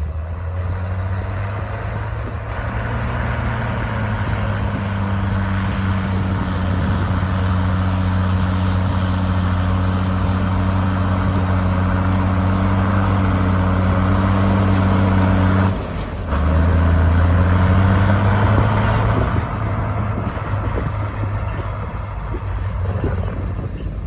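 Komatsu bulldozer's diesel engine running hard at a steady pitch, dropping out for a moment about sixteen seconds in before picking up again, then easing off near the end.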